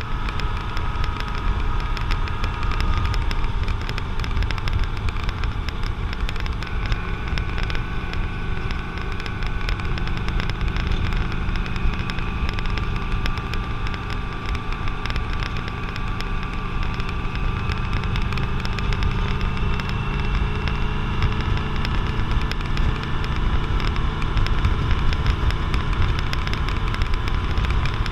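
Motorcycle engine running at a steady cruise under a heavy rumble of wind noise on the microphone, its pitch drifting slowly up and down.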